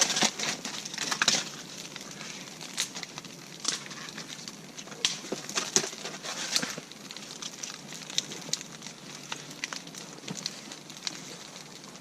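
Newly lit campfire crackling with irregular sharp snaps as birch bark and dry dead kindling catch.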